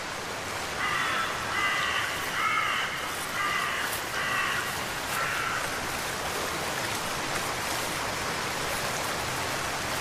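A bird gives a series of short, harsh calls, about six in the first half, over a steady hiss of running water or rain.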